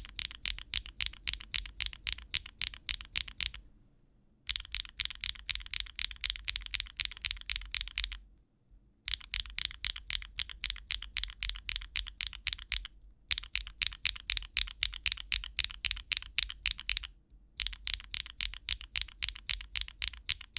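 Typing on a mechanical keyboard fitted with lubed HMX Egg Yolk switches, fairly loud and high-pitched, in five quick runs of keystrokes with short pauses between them.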